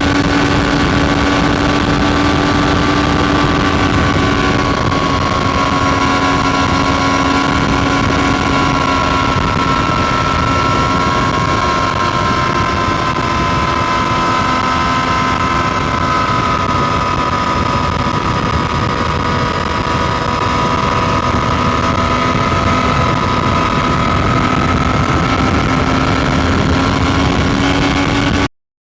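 Triumph Street Triple RS motorcycle's three-cylinder engine running at steady revs on the move, its pitch holding nearly constant with only slight drifts. It cuts off suddenly near the end.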